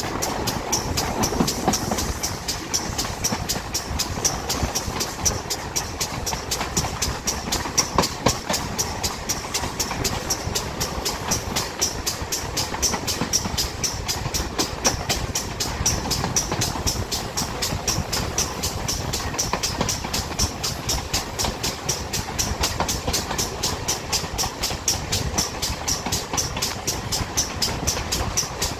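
A steam-hauled train running along the line, heard from the leading carriage just behind the locomotive: a continuous rumble and clatter of wheels on rails with a fast, even pulsing beat.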